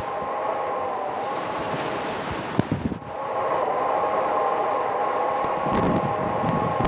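Blizzard wind blowing against the microphone, with a steady multi-tone whistling hum over the rush. It breaks off briefly with a couple of knocks about three seconds in, then carries on.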